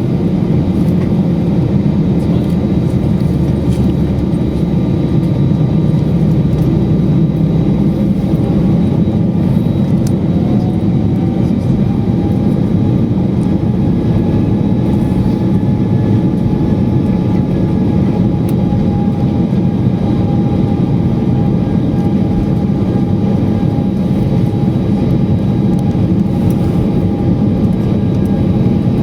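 Steady vehicle running noise: a low rumble with a faint whine that rises in pitch about ten seconds in and then holds steady.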